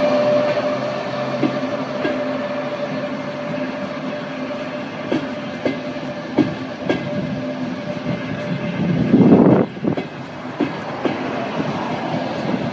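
Frecciarossa ETR 500 high-speed train passing close along a platform. A steady electric whine from the power car fades over the first several seconds, then the wheels clack over rail joints as the coaches go by. There is a louder rushing surge about nine seconds in and again near the end.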